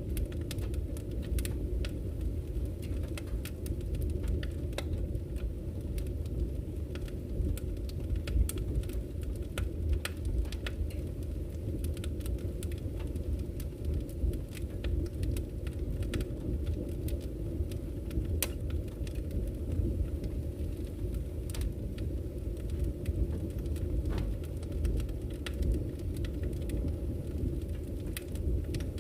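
Wood fire burning in a fireplace: a steady low rumble of the flames, with frequent sharp crackles and pops from the burning logs.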